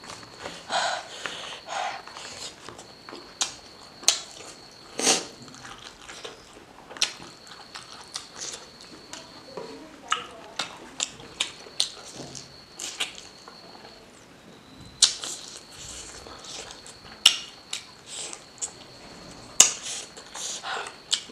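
Close-miked eating: mouth-noise chewing of pork and rice, with irregular sharp wet clicks and smacks, and fingers scraping rice across a banana leaf. A faint high whine comes and goes behind it.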